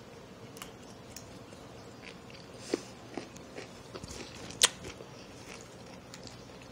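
Close-up chewing of a mouthful of raw spinach and radish salad: scattered crisp crunches, with two louder ones near the middle.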